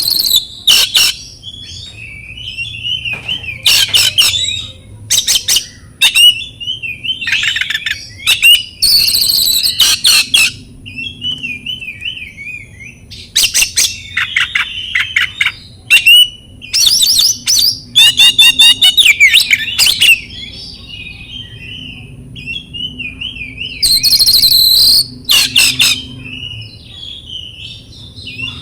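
Oriental magpie-robin (kacer) singing: loud, fast phrases of rattling and whistled notes every second or two, with quieter wavering twitter in between. A faint steady high-pitched tone runs underneath.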